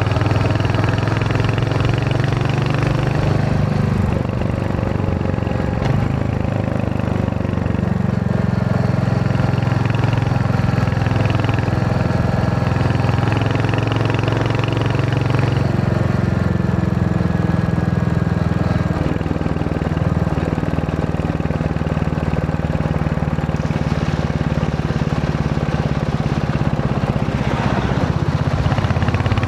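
Royal Enfield Hunter 350's single-cylinder engine running steadily as the motorcycle is ridden, its pitch shifting a few times with the throttle.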